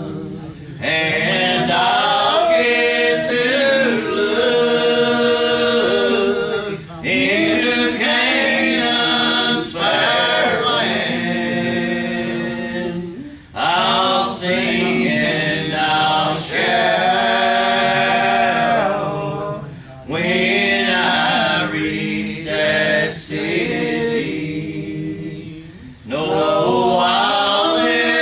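Gospel song sung in long, held phrases with short breaks about every six seconds.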